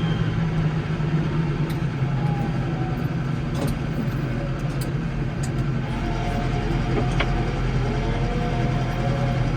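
Case 115U tractor's engine running steadily under snowplowing work, with a faint wavering whine in the second half and light scattered ticks.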